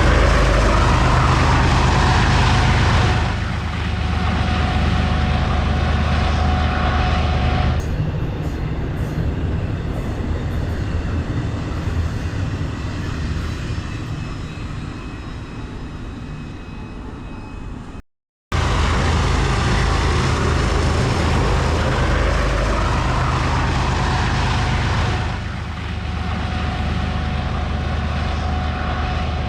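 Diesel freight train running past, a steady low engine drone with rail and wheel noise. The sound cuts out for a moment about two-thirds through and then comes back at full strength.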